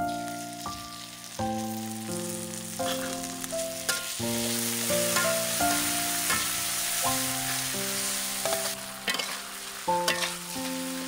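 Lemongrass, chillies and seasoning sizzling as they are stir-fried in a metal wok, with a spatula scraping and tapping the pan now and then. Soft background music of held notes runs underneath.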